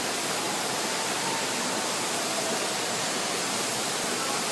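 Waterfall falling, a steady, dense rushing of water with no change in level.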